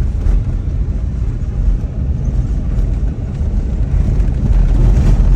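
Car driving over a rough road, heard from inside the cabin: a steady low road and engine rumble.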